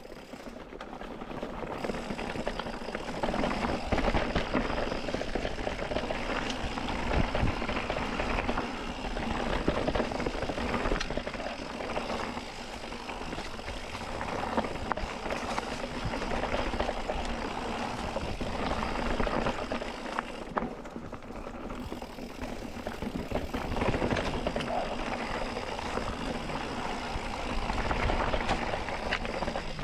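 Mountain bike rolling along dirt singletrack: the tyres run over the trail with a steady noise, and the bike gives many small knocks and rattles over roots and rocks.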